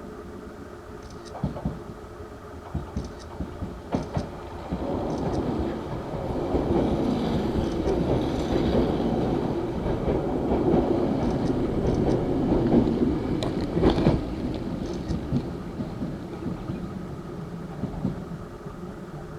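Nose Electric Railway 3100 series electric train running past. Its wheels click over the rail joints, and the running noise builds to a peak about fourteen seconds in, then fades.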